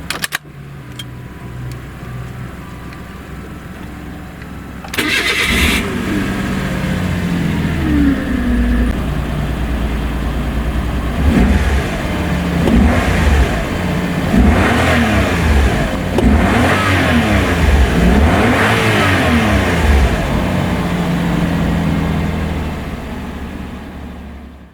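Suzuki MR Wagon Sports turbo's 660 cc three-cylinder turbo engine: after a low steady hum, the starter cranks about five seconds in and the engine catches and idles. It is then revved in neutral several times, each blip rising and falling in pitch, before settling back to idle near the end.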